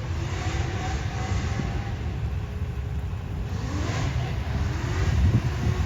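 Car engines running with a low rumble, one swelling louder about five seconds in.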